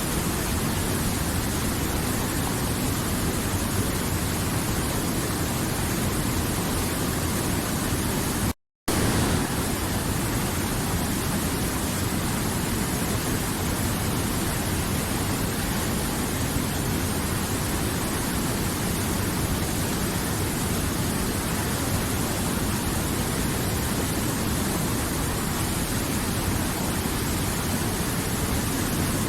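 River water flowing steadily, an even dense noise. It cuts out to silence for a fraction of a second about eight and a half seconds in, then resumes unchanged.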